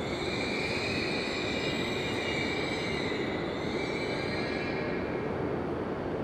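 E5 series Shinkansen pulling slowly into the platform and braking to a stop. Its brakes and wheels give a high squeal made of several steady tones, which fades out about five seconds in, over the train's steady running noise.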